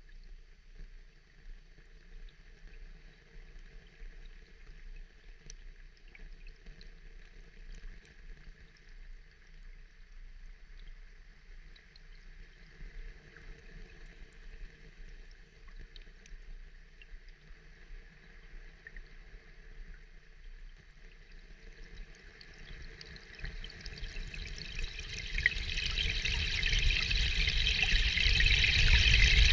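Running, pouring water: faint with scattered small drips at first, then swelling much louder over the last several seconds.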